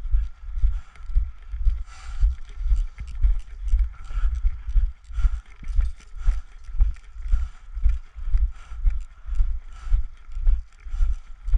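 Steady walking footsteps of the player carrying the camera, about two thumping steps a second, with gear jostling at each step.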